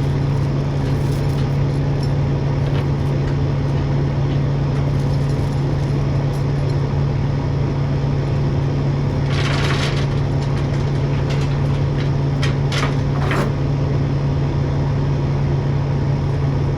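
A vehicle engine running with a steady low drone, as from a loaded truck on the way to a job. There is a short hiss about nine seconds in and a few brief clicks a few seconds later.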